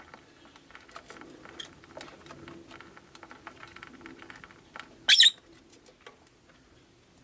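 Rosy-faced lovebird giving one loud, sharp chirp about five seconds in, over faint scattered clicks and scratches.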